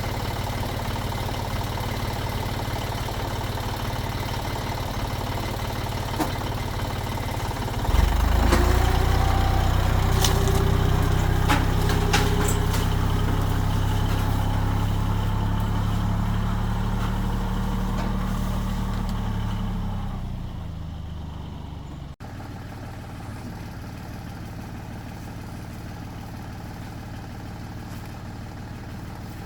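Tractor engine running at a steady idle, then suddenly louder about eight seconds in as it is revved or put under load, with a few clicks. It holds for about twelve seconds, then dies back down to a quieter steady hum.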